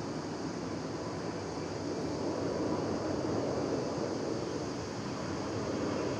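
Steady outdoor noise, a low rumbling hiss with no distinct events.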